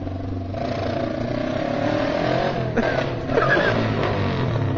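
1971 Honda CL350's parallel-twin engine running, its note wavering slightly up and down. The engine has just been brought back to life after a rebuild of its disassembled carburetors.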